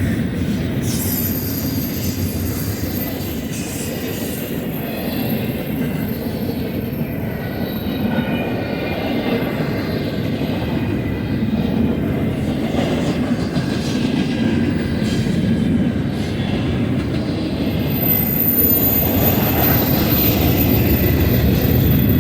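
Cars of a passing intermodal freight train rolling by on the mainline: a steady rumble of steel wheels on rail with faint wheel squeal in the middle, getting louder toward the end.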